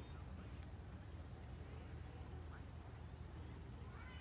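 Faint birdsong: a short high note repeating about every half second, and a quick run of four or five higher rising chirps about two and a half seconds in, over a low steady rumble.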